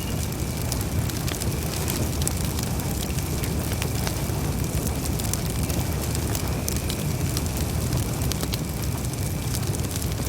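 Campfire burning: a steady low rush of flames with frequent sharp crackles and pops from the burning wood.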